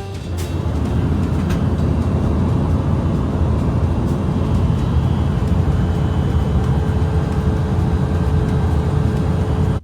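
Jet airliner cabin noise: a steady, loud engine rumble and air rush with a faint steady hum.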